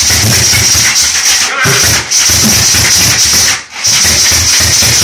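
Rebuilt Volkswagen 16-valve 2.0 L four-cylinder engine in a Mk2 Jetta, turned over by the starter motor without catching. The cranking is rhythmic and loud, with short breaks about a second and a half in and again near four seconds. The engine is not firing, and the helpers take it to be flooding with fuel.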